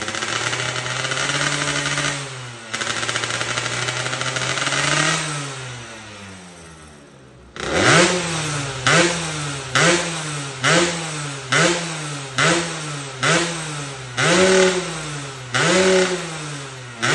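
Motorcycle engine revving through an aftermarket aluminium exhaust silencer. Two revs held for a couple of seconds each, falling back, then from about halfway a run of about seven short sharp throttle blips roughly one a second, followed by two longer revs.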